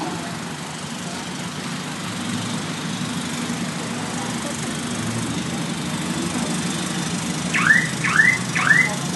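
An engine idling with a steady low hum. Near the end, three quick rising chirps about half a second apart stand out above it.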